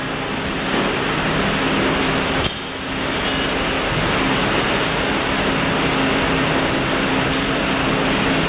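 Electric arc welding: a steady crackling hiss over a faint hum, breaking off briefly about two and a half seconds in before the arc runs on.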